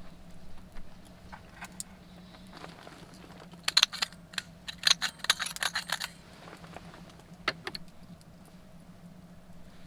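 Light metallic clinks and clicks of eating and cooking utensils handled during a meal, scattered at first, then quick clusters of clinks around four seconds in and again between five and six seconds.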